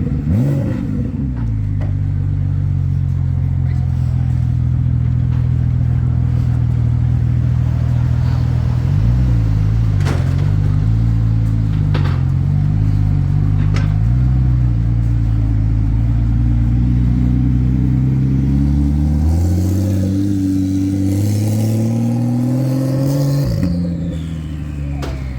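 A vehicle engine running steadily at low revs, its pitch wavering briefly about nine seconds in, then climbing steadily over several seconds near the end before dropping back.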